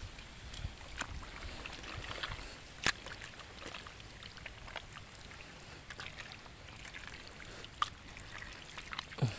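Shallow water trickling in a part-drained fish pond, with scattered small splashes and clicks, the sharpest about three seconds in and again near the end.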